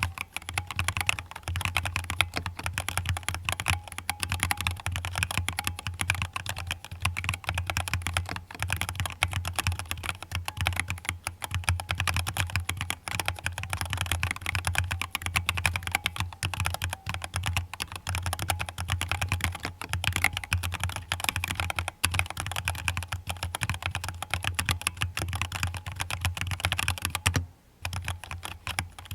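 Fast, continuous typing on a mechanical keyboard: a dense run of keystroke clacks that stops briefly near the end, then resumes.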